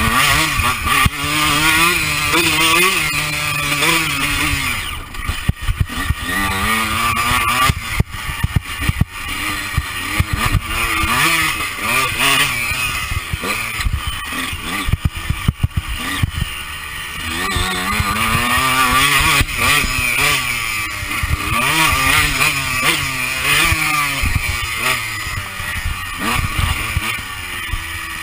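Honda CR125 two-stroke single-cylinder motocross engine heard from on board, revving up and dropping back over and over as the bike accelerates, shifts and backs off around the track. Wind rushes across the microphone, and knocks and rattles come through from the bike over the bumps.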